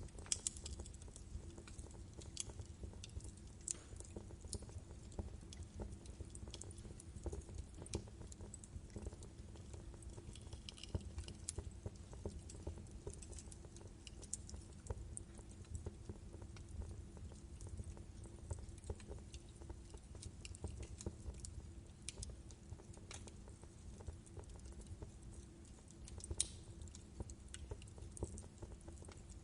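Wood fire crackling in a fireplace: irregular snaps and pops of burning logs over a low steady rumble.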